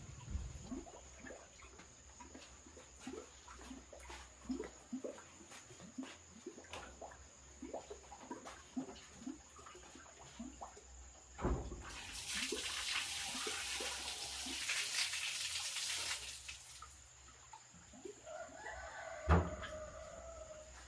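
Scattered small clicks and chirps, then a few seconds of rushing water in the middle, and near the end a chicken-like call with a sharp knock.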